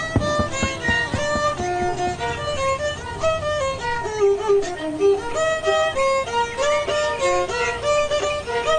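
Music: a violin playing a quick melody of short notes, with a few low beats in the first moment.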